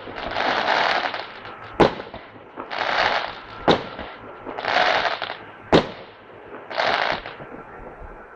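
Display fireworks going off in a steady sequence: a sharp bang about every two seconds, each followed by a hissing crackle lasting most of a second, dying down near the end.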